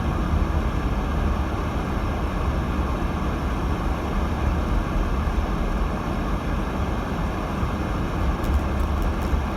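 Steady road and tyre noise inside a 2018 Subaru Crosstrek's cabin while driving on a snowy road, a deep low rumble with an even hiss above it.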